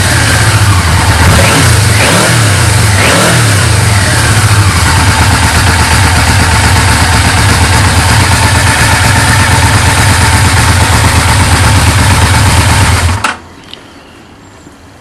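Yamaha V-Max motorcycle's V4 engine on its stock exhaust, revved in a few quick blips, then running steadily. It stops suddenly near the end.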